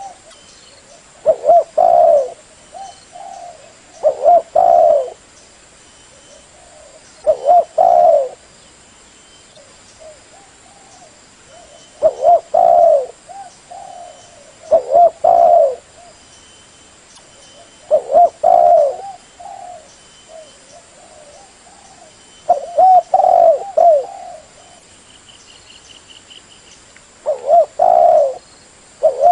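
Spotted dove (tekukur) cooing: eight repeated phrases, one every three to four seconds, each a few strong coos followed by softer trailing notes.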